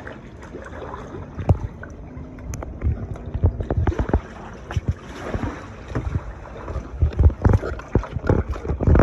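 Kayak paddling: paddle blades splashing in the water and knocking irregularly against the kayak, with wind buffeting the microphone.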